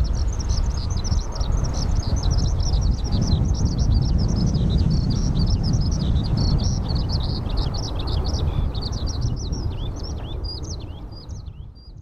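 Many small birds chirping busily, with dense, overlapping high chirps over a heavy low rumble. It all fades out near the end.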